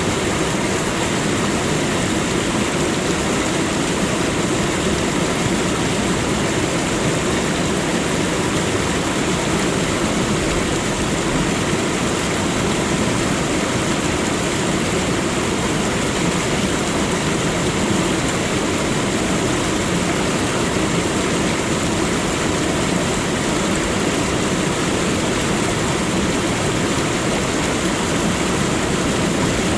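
Waterfall: water falling and crashing in a steady, even rush with no breaks.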